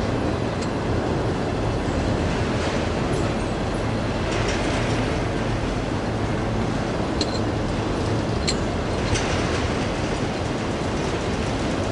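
Freight train of autorack cars rolling past with steady wheel-on-rail noise and a low rumble. A few brief high sharp sounds come near the end.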